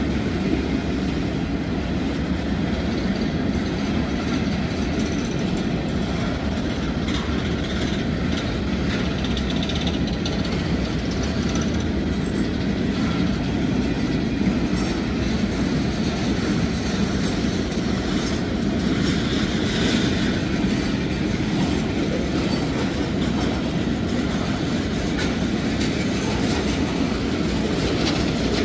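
Freight cars of a Norfolk Southern manifest train rolling past: a steady rumble of steel wheels on rail with the clickety-clack of wheels over the rail joints. The passing cars are boxcars, a covered hopper and tank cars.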